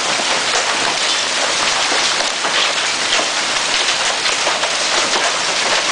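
Heavy hail, pea- to quarter-size stones, falling steadily and pelting the ground and roof in a dense, continuous clatter of many small impacts.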